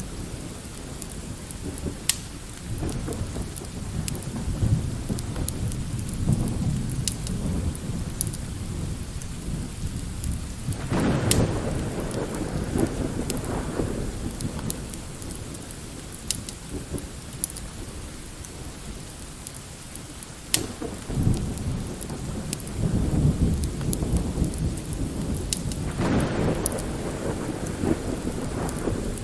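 Mixed storm ambience: steady light rain with long, deep rolls of distant thunder that swell twice, about ten seconds in and again past twenty seconds. Scattered sharp pops of a crackling wood fire sit over the rain.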